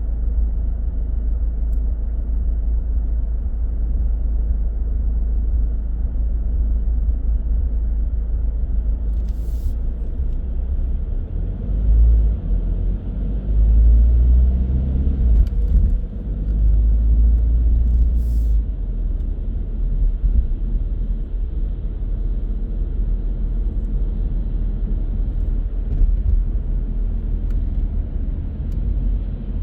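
Car driving through city traffic: a steady low road and engine rumble that swells for several seconds in the middle, with a couple of brief clicks.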